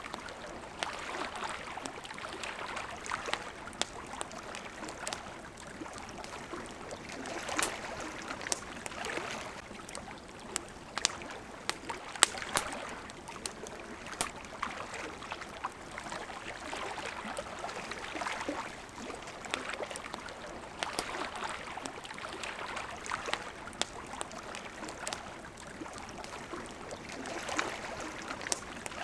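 Small waves lapping at the water's edge, the wash swelling and easing every few seconds, with a wood campfire crackling and popping in sharp irregular snaps over it.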